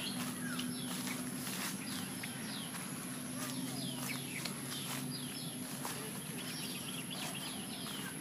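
Small birds chirping in quick runs of short, falling calls, many times over.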